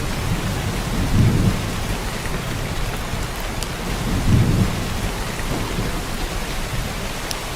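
Heavy downpour of rain hissing steadily, with two brief low rumbles, one about a second in and one about four and a half seconds in, and a few faint sharp drop ticks.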